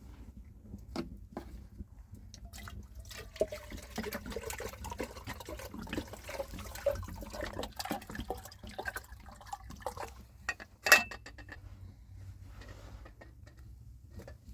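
Water sloshing and splashing, mixed with many small handling clicks and knocks, with one sharp knock near the end.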